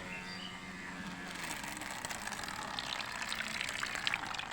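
Water splashing and churning, stirred up by a small DC-motor-driven bottle boat, with a faint steady motor tone at first; the splashing grows busier about a second and a half in.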